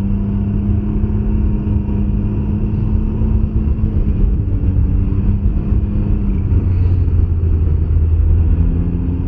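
2021 Can-Am Ryker 900's three-cylinder engine running steadily under way, with low road and wind rumble.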